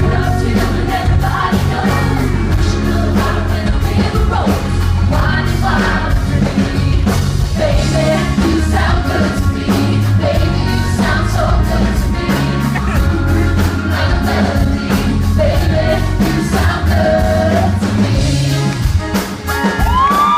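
Live pop song performed by a female lead singer with a full band: sung melody over a steady drum beat and heavy bass.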